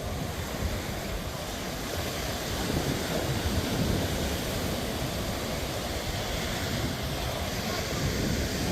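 Sea surf breaking and washing onto the beach in a steady wash of noise, with wind rumbling on the microphone.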